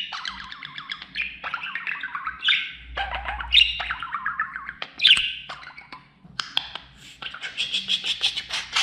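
Budgerigar warbling and chattering: a string of falling chirps, each running on into scratchy warble, then a fast clicking chatter near the end.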